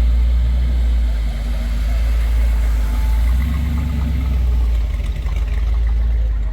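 A car engine idling close by, a steady low rumble.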